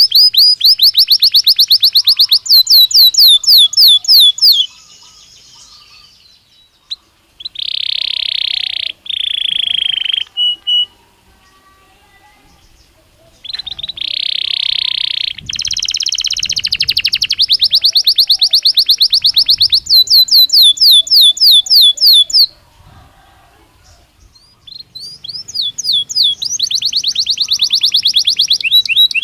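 Belgian canary singing in long phrases of fast repeated trills and buzzy rolls, broken by short pauses of a few seconds.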